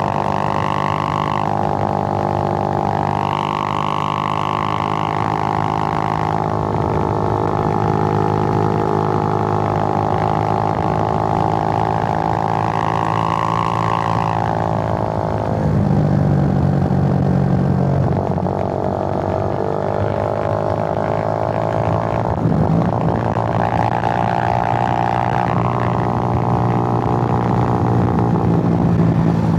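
Suzuki GN125's single-cylinder four-stroke engine running on the move, its drone rising and falling with the throttle. The pitch falls sharply about halfway through and again about three-quarters through, as with gear changes or closing the throttle, then climbs again.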